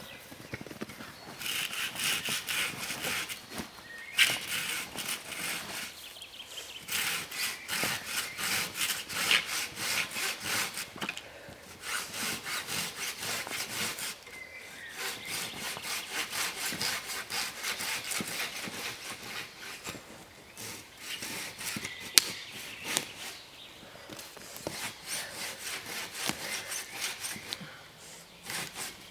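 Hand saw cutting through wood with quick, even back-and-forth strokes, in several bouts broken by short pauses.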